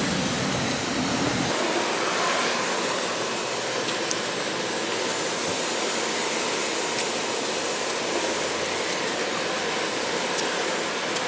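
Car-wash floor-mat cleaning machine running with a steady rushing noise; a low rumble underneath drops out about a second and a half in.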